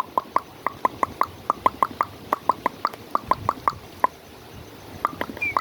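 A rapid run of sharp clicks, about five a second, that stops about four seconds in; right at the end a short whistled chirp begins.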